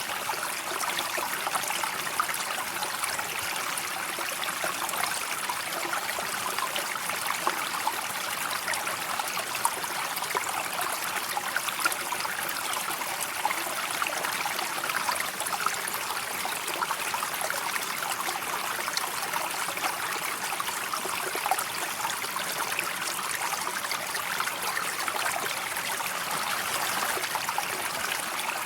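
A calm river flowing: a steady rush of water full of small trickling splashes, without pause.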